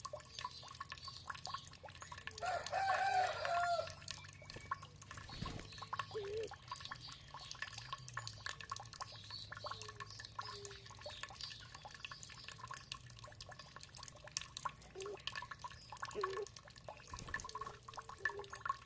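Water trickling and dripping steadily. Birds call over it: one louder call lasting about a second and a half, a couple of seconds in, then a few short calls scattered through the rest.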